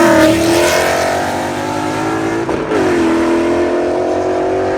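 A motor vehicle engine revving high and holding its pitch. About two and a half seconds in it drops off briefly, then revs back up and holds steady.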